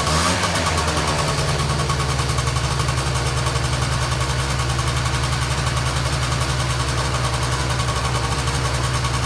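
Honda Dio SR scooter's small two-stroke engine idling steadily with a fast, even pulse, after a brief blip of the throttle just at the start.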